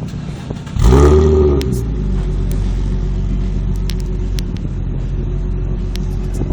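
Nissan 350Z's 3.5-litre V6 engine revved sharply once, about a second in; the pitch climbs and falls back within a second, then the engine settles into a steady idle.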